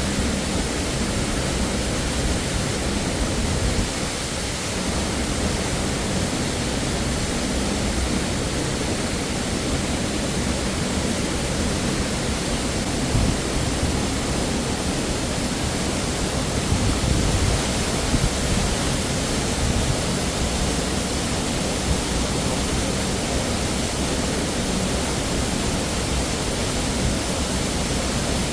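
Waterfall rushing: a steady, loud hiss of falling water, with a few light knocks about halfway through.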